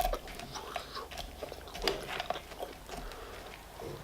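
Close-miked chewing and biting: irregular wet mouth clicks and smacks of a person eating.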